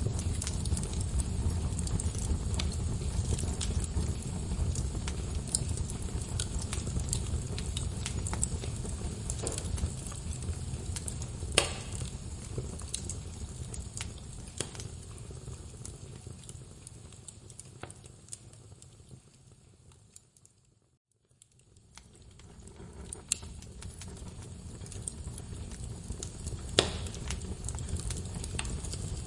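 Wood fire crackling in a fireplace: a steady low rumble of burning logs with scattered sharp pops and snaps, two of them louder. About two-thirds of the way through it fades almost to silence, then fades back up.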